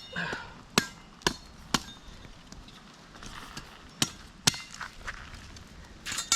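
Firewood being handled: six sharp wooden knocks, three in quick succession, then two, then one near the end.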